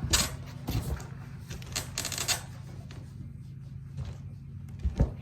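Old newspaper rustling and crinkling as it is handled, in a few short bursts, the longest about two seconds in.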